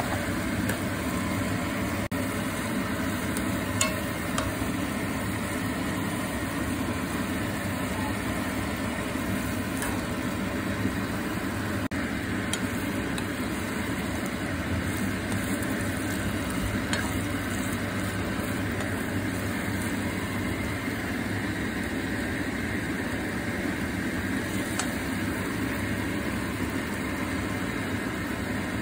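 Udon noodles stir-frying in a wok: a steady sizzle as the noodles and vegetables are turned with a spatula, with a few faint spatula clicks against the pan. Underneath runs a steady low hum.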